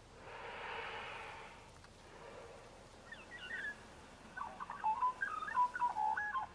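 A soft, breathy whoosh, then from about three seconds in, rapid bird chirps with quick jumps in pitch that grow denser toward the end.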